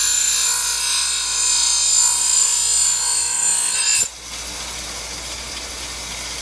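Knife being sharpened: a continuous high-pitched grinding rasp with a steady whine in it, which cuts off suddenly about four seconds in, leaving a quieter steady hiss.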